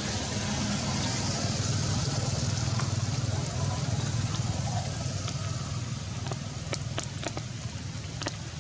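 Heavy rain falling as a steady hiss with a low rumble beneath it. From about six seconds in, separate drops splash and tick sharply.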